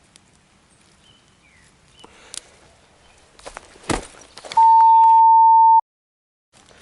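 Footsteps and rustling among the undergrowth with a sharp knock about four seconds in, then a steady high-pitched censor bleep lasting just over a second, cut off abruptly into a moment of dead silence.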